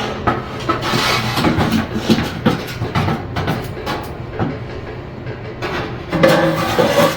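Irregular clattering and scraping from cleaning out an old wood stove, about 60 years old, with a louder stretch near the end.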